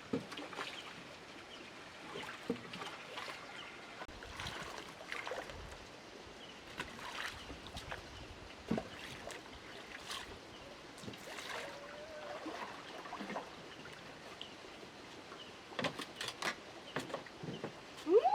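Light splashing and lapping of water with scattered small knocks and clicks. A short rising call comes near the end.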